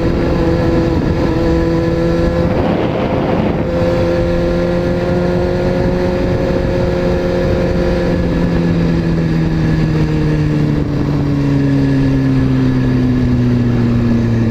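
Honda CBR600F4i sport bike's inline-four engine running under way at a steady pitch, then slowly dropping in pitch through the second half as the bike slows. There is a brief rush of noise about three seconds in.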